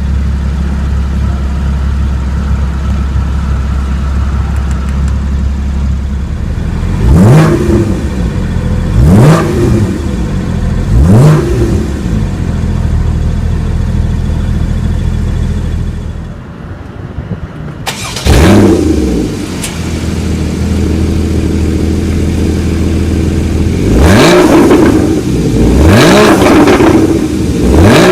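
Porsche Cayman GTS's 3.4-litre flat-six idling just after start-up, then blipped three times in quick, even revs that rise and fall. About sixteen seconds in the sound drops away briefly before the engine flares up again, settles to idle, and is revved repeatedly near the end.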